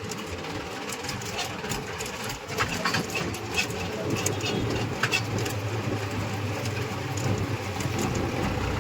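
Tractor's diesel engine running steadily under way, with a rattling clatter and scattered sharp clicks.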